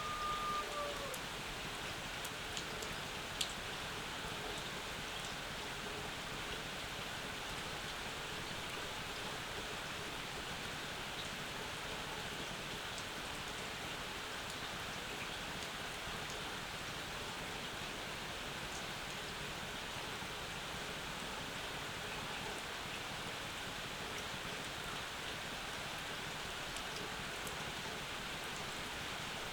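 Steady summer rain falling, with a few sharp drips close by.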